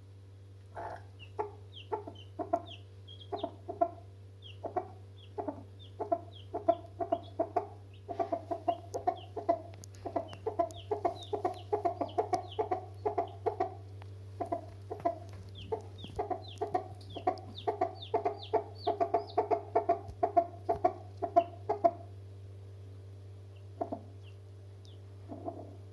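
Chickens clucking in a rapid run of short calls, several a second, which thins out about 22 seconds in to just a couple more near the end. A steady low hum lies underneath.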